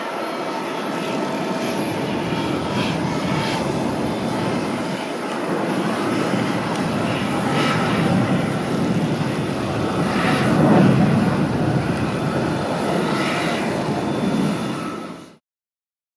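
Boeing 777-300ER's two GE90-115B turbofan engines at take-off power, a loud jet roar that slowly builds and swells to a peak, then cuts off abruptly near the end.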